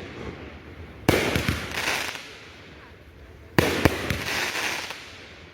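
Fireworks going off: a sharp bang about a second in, followed by about a second of loud crackling burst, then a second bang with a similar burst a little past the middle.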